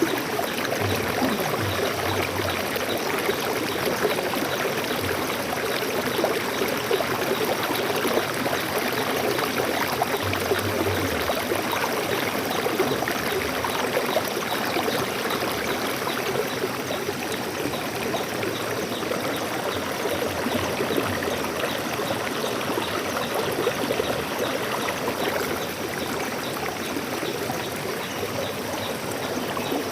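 Stream water flowing steadily, a continuous rushing with a few low gurgles in the first dozen seconds or so.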